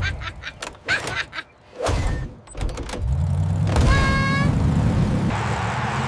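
Cartoon race sound effects: a run of sharp knocks and clatter, then from about halfway a steady low vehicle-engine drone, with a short high tone about four seconds in.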